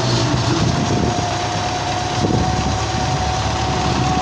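Tractor diesel engine running steadily, with a thin steady whine over the low engine rumble.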